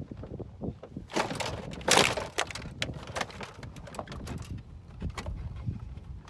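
Hard crunching and scraping from work on a car's door panel and side window, loudest in two bursts about one and two seconds in, followed by scattered clicks and knocks.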